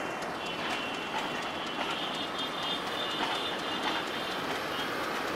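Broad-gauge PT INKA passenger coaches rolling past on the track, their wheels clicking steadily over the rail joints, with a thin high squeal coming and going.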